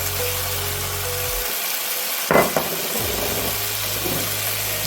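Onions frying in butter in a pan, sizzling steadily, over a steady low hum that drops out for about a second midway. A short louder sound comes a little over two seconds in.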